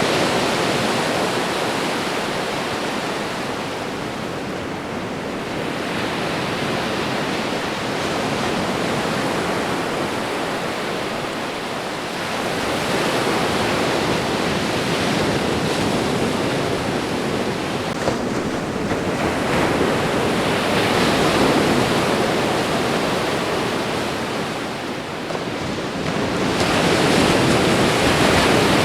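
Ocean waves washing onto a shore in a steady hiss, swelling and easing every several seconds as each wave comes in.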